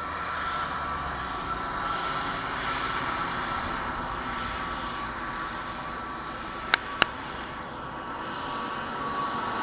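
Airbus A320neo jet engines running on approach: a steady rushing noise with a steady whine, growing louder near the end. Two sharp clicks, close together, about seven seconds in.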